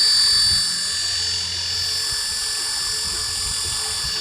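Flying ball toy's small electric motors and propellers spinning, a steady high-pitched whine that gets slightly quieter about half a second in.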